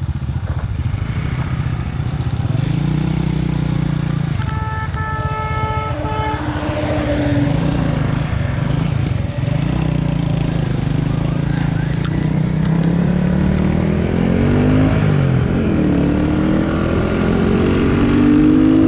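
Yamaha Nouvo 125 automatic scooter's engine running under way, its pitch rising and falling with the throttle and climbing steadily as it accelerates over the last few seconds. A vehicle horn sounds for about a second and a half, about five seconds in.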